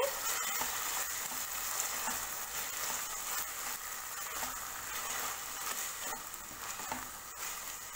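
Vegetables and sauces sizzling steadily in a hot wok as they are stir-fried, with a spatula stirring and now and then clicking against the pan.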